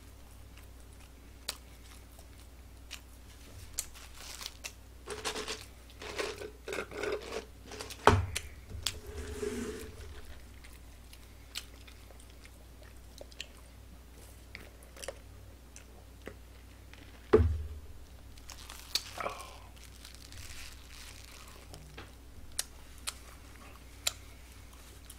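Close-miked chewing and biting of a McDonald's burger, with scattered small wet clicks. Two sharp thumps come about eight seconds in and again about seventeen seconds in.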